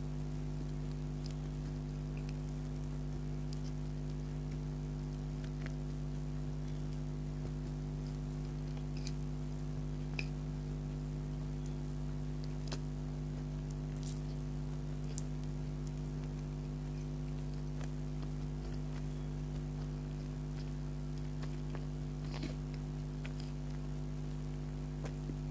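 Soft chewing with scattered small wet mouth clicks as a donut is eaten, over a steady low electrical hum that is the loudest thing throughout.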